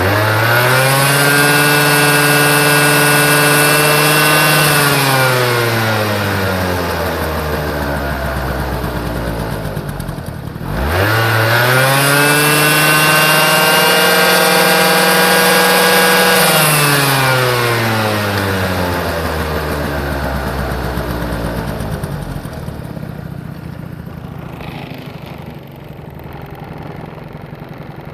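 Honda Live Dio AF34 scooter's 49 cc single-cylinder two-stroke engine revved up twice. Each time it is held high for about four seconds, then slowly winds down, and it settles to a steady idle near the end.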